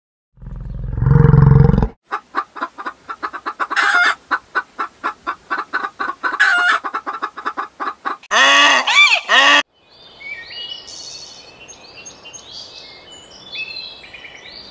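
A bison gives a short low bellow. Then a hen clucks rapidly for about six seconds and lets out three loud, arching squawks, followed by faint small-bird chirping.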